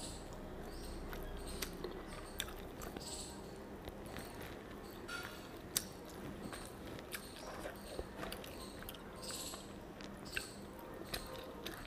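Soft chewing and small wet mouth clicks of a person eating rice and fish curry by hand, with scattered faint ticks throughout.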